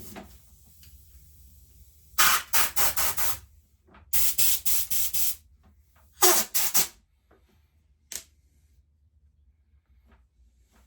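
Pressurised spray hissing in groups of short, rapid bursts, about four a second, blasting dirt out of a blocked tube on a petrol lawnmower engine. There are three groups of bursts and a single short one near the end.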